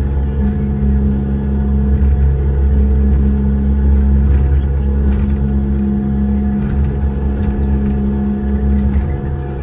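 Engine running steadily, a deep drone with a few held tones and occasional faint clicks.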